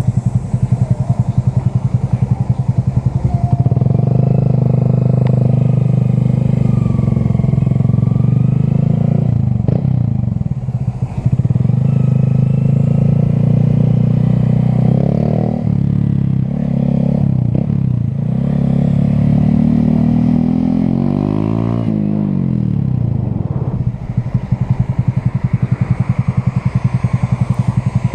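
Motorcycle engine running at low revs with a fast, even pulsing beat. In the middle it runs steadier and slightly higher, with the pitch rising and falling about three-quarters through. It drops back to the pulsing idle near the end.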